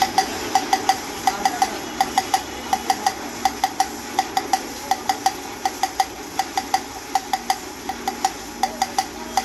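Light metal tapping in a fast, even rhythm, about four to five taps a second and often in pairs, each with a short ringing note, from hand work on an engine cylinder head.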